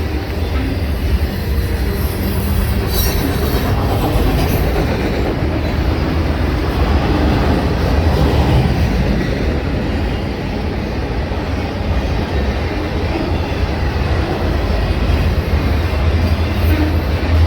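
Railroad cars rolling past on the track: a steady loud rumble with wheel-on-rail clatter, and a brief high screech about three seconds in.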